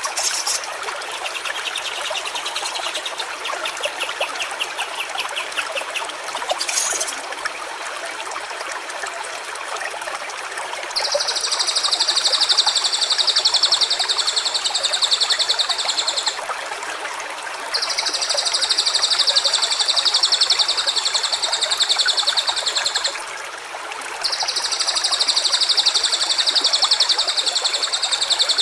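Stream water trickling steadily, with a bird trilling through the first six seconds or so. In the second half there are three long, high, buzzing trills of about five seconds each, with short gaps between them.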